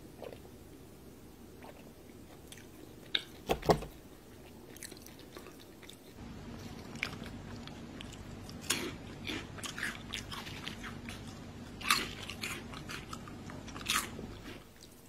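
Close-miked biting and chewing of crunchy snacks, with sharp crunches, the loudest a few seconds in and more near the end, over a faint low hum.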